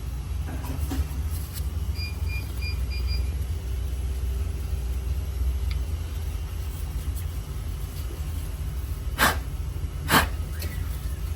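Steady low rumble, with a quick run of about five short high beeps two seconds in and two sharp knocks about a second apart near the end.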